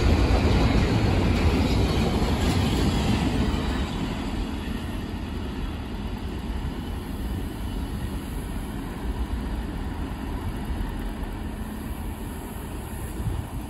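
Freight train's cars rolling along the track and moving away, a steady rumble that is loudest at first and fades over the first few seconds to a lower level.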